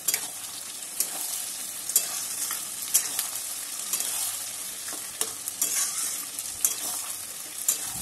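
Onions, capsicum and freshly added chopped tomatoes sizzling in hot oil in a metal wok (kadai), stirred with a metal spatula that clicks and scrapes against the pan about once a second.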